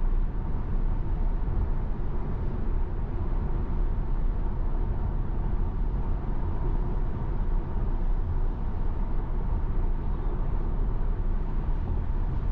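Steady road noise inside a Tesla Model Y cruising on a wet highway at about 71 mph: tyre and wind noise with no engine sound, since the car is electric.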